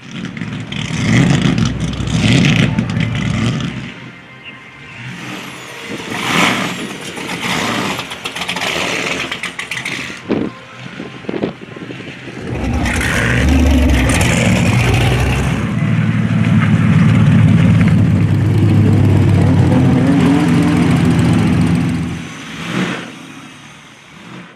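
Car engines revving and running in short loud bursts, then one engine held loud and steady for several seconds from about halfway through, easing off a couple of seconds before the end.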